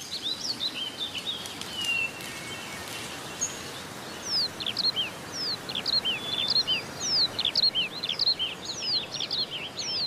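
Birds chirping: many short, quick notes, sparse at first and much busier from about four seconds in, over a steady hiss of outdoor background noise.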